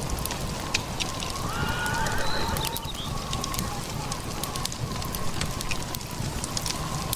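Steady rumbling noise full of scattered crackling clicks. About a second and a half in comes a short, wavering animal call lasting about a second.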